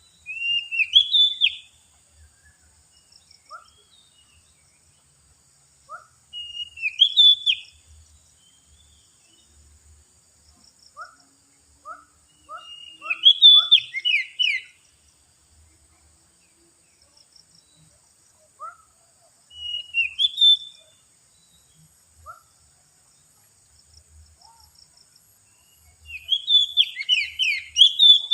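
Oriental magpie-robin (kacer) singing loud whistled phrases of gliding notes, five bursts about six seconds apart, with a few softer single notes between them. The song serves as a lure call for wild magpie-robins.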